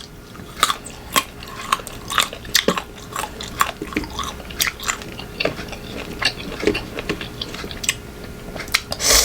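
Close-miked crunching and chewing of raw green mango: many sharp, irregular crunches, several a second. Near the end comes a short, louder rush of noise.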